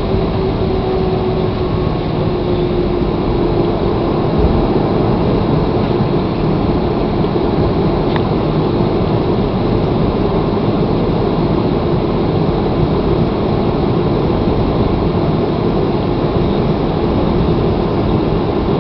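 Steady engine and airflow noise inside an airliner's passenger cabin, with a low rumble and a held hum that sinks slightly in pitch.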